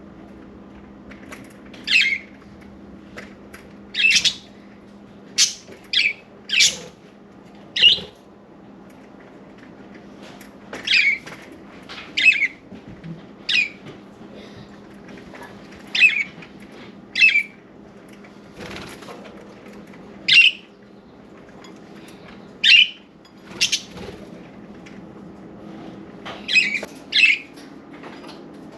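Budgerigars giving short, sharp, high-pitched chirps and squawks at irregular intervals, some in quick pairs or clusters, over a faint steady low hum.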